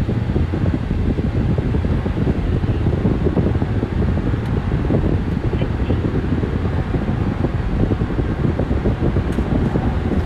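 Steady low rumble of a 2023 Grand Wagoneer under full acceleration, its high-output Hurricane twin-turbo inline-six and road noise heard from inside the cabin.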